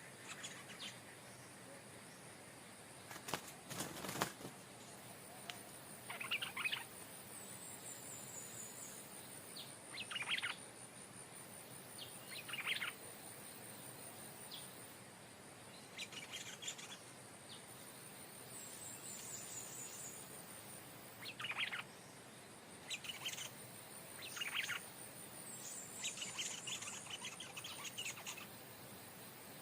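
Stripe-throated bulbul song: short bubbly phrases of about a second, repeated every few seconds, over a steady high-pitched insect drone. Two sharp knocks come a few seconds in.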